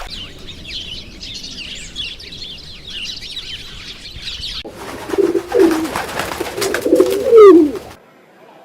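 Birds chirping in quick, high twitters, then from about five seconds in pigeons cooing in low rising and falling calls with some wing flaps. The sound cuts off suddenly near the end.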